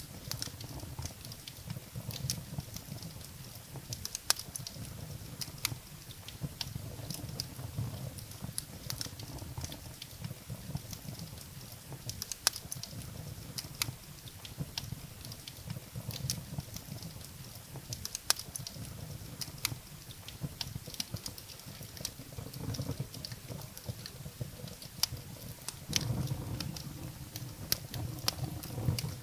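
Wood fire burning in a fireplace: a low, fluttering rumble of the flames with irregular sharp crackles and pops of the burning logs.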